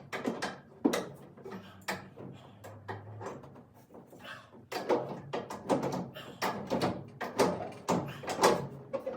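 A wrench working threaded plugs into galvanized steel pipe fittings as they are tightened down: a run of irregular knocks, clicks and scrapes.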